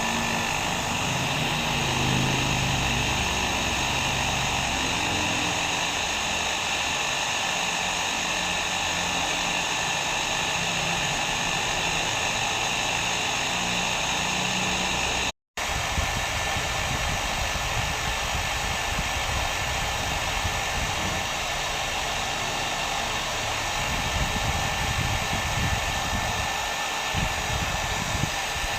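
Hair dryer running steadily, a constant rushing blow with a faint high whine from the motor. It cuts out for a split second about halfway through, then carries straight on.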